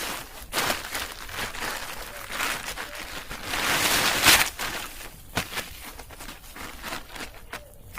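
Rustling and crunching handling noises with scattered sharp clicks, loudest in a long rustle about four seconds in.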